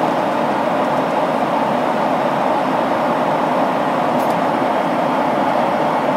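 Steady cabin noise of an airliner in flight: the even hum and rush of the jet engines and airflow, unchanging throughout.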